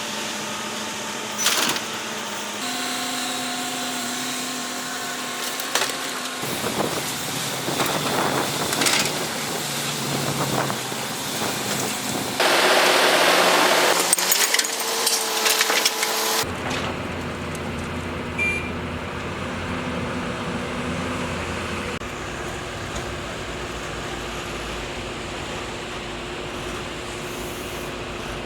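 Heavy construction machinery running: engine drone whose pitch and character change abruptly several times, as between separate clips. A loud hissing rush comes about 12 to 14 seconds in, the loudest part.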